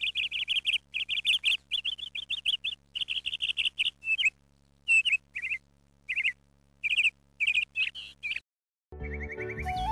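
A bird chirping in quick runs of short, rapid notes with brief pauses, over a faint steady hum. The chirping stops a little before the end, and flute music comes in.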